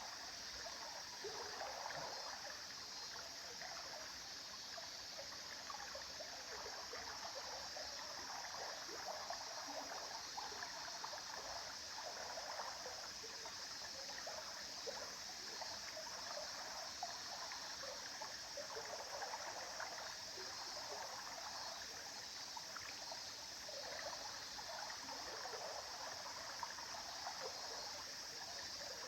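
A shallow stream flowing steadily, the water trickling and babbling over stones in a constant, even wash.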